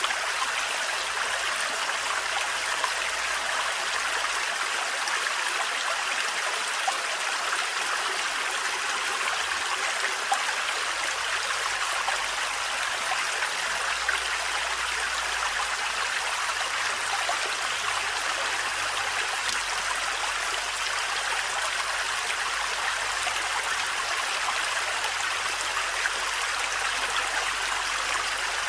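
Water of a thin forest waterfall splashing and running in a steady, even rush, with a few small splashes and drips ticking through it.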